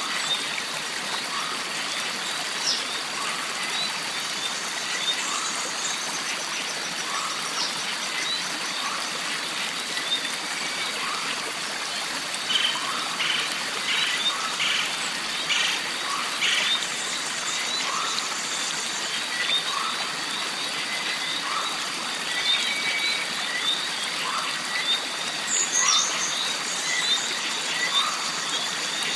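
Jungle stream ambience: water running and trickling under a steady high whine, with a short call repeating roughly every second and a half. A burst of quick clicky calls comes about halfway through, and a few high bird calls are scattered through it.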